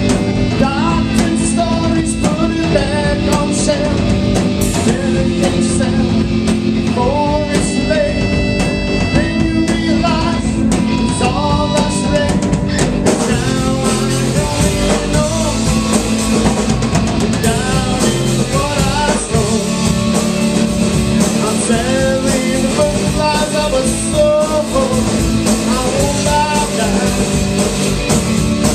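A rock band playing a song live: a voice singing over guitar and drum kit, with a steady beat.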